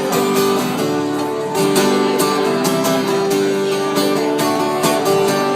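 Acoustic guitar strumming chords at a steady rhythm, with no singing: the instrumental close of a live folk song.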